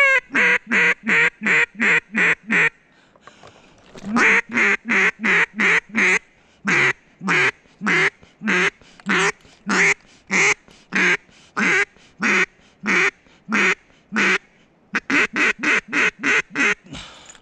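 Duck call blown in strings of loud quacks, about three a second, each note dropping in pitch. There are three runs: a short one, a long one, and a short one near the end. The hunter is calling to a small flock of incoming ducks.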